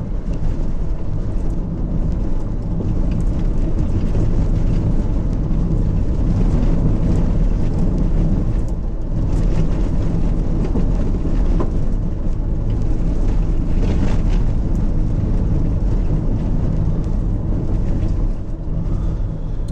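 Car driving on a potholed asphalt road, heard from inside the cabin: a steady engine and tyre rumble with a few knocks as the wheels hit the holes.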